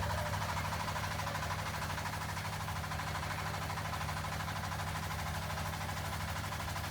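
The engine of a river passenger boat running steadily under way, a rapid, even chugging.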